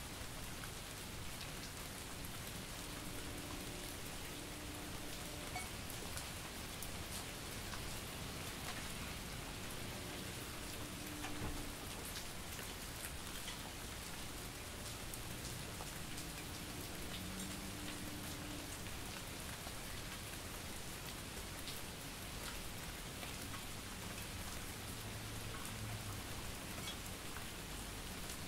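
Steady rain and drizzle falling, a continuous even hiss with scattered individual drops ticking through it.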